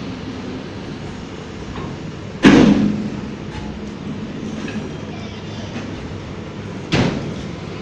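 Freight train wagons rolling slowly along the track, a steady rumble and rattle, with a loud metallic clank about two and a half seconds in and another near the end.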